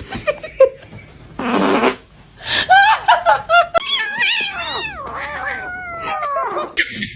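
A cat meowing in a run of calls, the later ones long and sliding down in pitch, like yowls. Before them, about a second and a half in, comes a short raspy burst.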